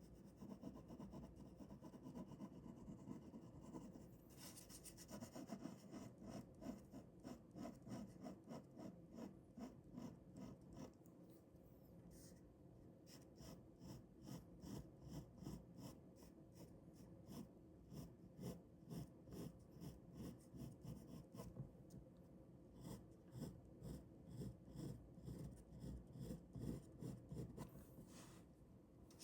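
Ballpoint pen drawing on paper: faint, quick back-and-forth scratching strokes in a steady rhythm, briefly pausing near the middle.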